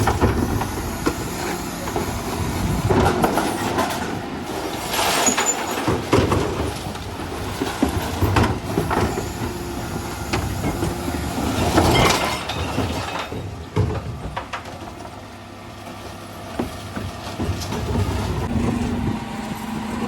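Dennis Elite 6 refuse lorry working a recycling collection: its engine running under loud clattering and crashing bursts of bins and recyclables being handled, with a steady hum coming in near the end.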